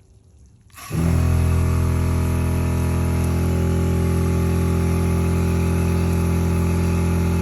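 Electric 12-volt pump of a 25-gallon spot sprayer switching on about a second in and running with a steady, even hum.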